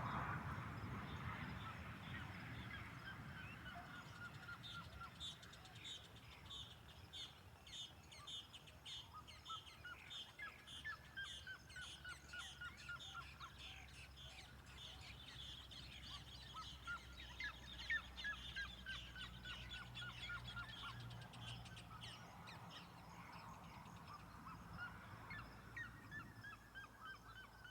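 Birds calling, long runs of short notes repeated several times a second at different pitches overlapping, with a faint steady low hum underneath.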